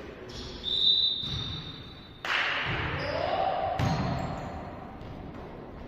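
Echoing sports-hall noise with a volleyball thudding and bouncing. A steady high tone sounds for about a second and a half, starting about half a second in, and a lower steady tone holds through the second half.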